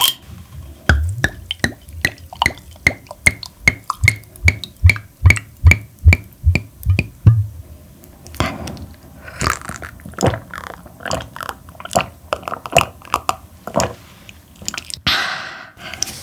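Close-miked chewing of tender, chewy parboiled webfoot octopus, with a steady run of wet clicks about three a second for the first seven seconds or so, then looser, irregular chewing. A louder rushing noise comes near the end.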